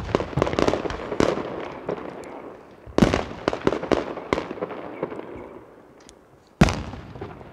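Aerial firework shells bursting: a loud boom about three seconds in and another near the end. Runs of sharp crackling pops from the bursting stars fill the first second and the second after the first boom.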